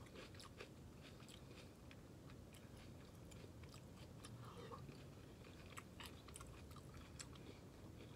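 Faint close-up chewing of a sauce-dipped cheesy stuffed bell pepper, with soft clicks scattered all through.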